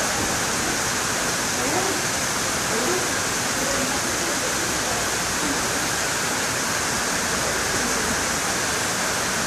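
Heavy tropical downpour: torrential rain falling steadily on dense foliage, a loud, even hiss that doesn't let up.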